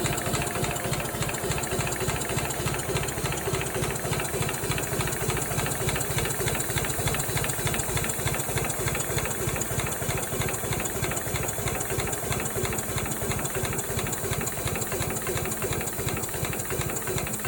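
Replica Locomobile steam car engine running on compressed air instead of steam, giving a steady stream of rapid, even exhaust beats with a mechanical clatter.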